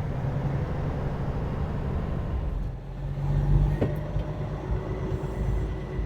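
Semi-truck diesel engine and road noise heard from inside the cab while driving: a steady low hum that dips briefly and swells again about three seconds in, with a single click a little later.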